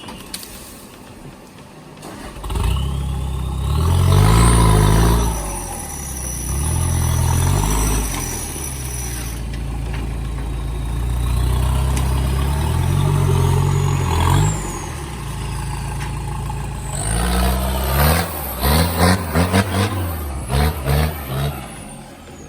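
A vehicle engine revving hard under load, rising and falling several times, then a quick run of about eight short blips of the throttle near the end.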